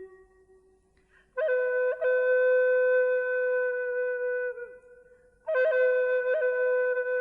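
Slow solo woodwind melody, flute-like: a note fades out, then after a short pause two long held notes with small ornamental dips in pitch, separated by a brief break.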